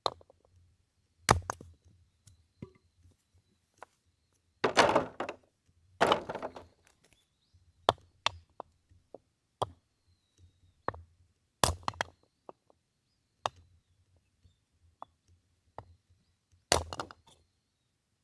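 Firewood being split with an axe: repeated sharp chopping strikes on wood at irregular intervals, a few loud and the rest lighter. There are two longer, rougher stretches about five and six seconds in.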